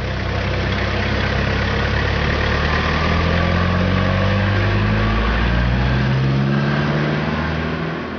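Pickup truck engine running, its pitch climbing through the middle as it revs up, then fading out at the end.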